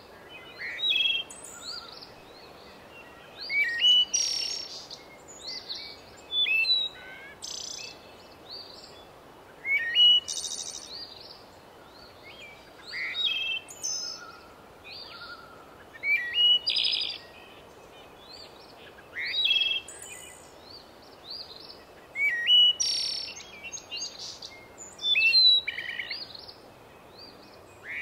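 Birdsong: small birds chirping and singing in short, high phrases every few seconds over a faint steady hiss.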